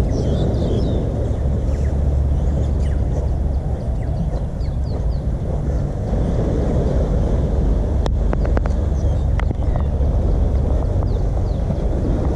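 Steady low outdoor rumble, with a few high chirps near the start and a handful of sharp clicks about eight to nine and a half seconds in.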